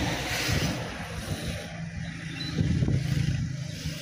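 Heavy rain falling, a steady hiss, over a low, uneven rumble.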